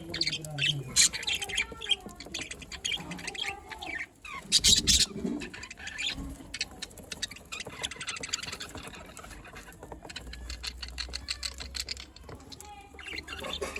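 A flock of budgerigars chattering and chirping, many short high calls overlapping without a break, with a louder burst about five seconds in.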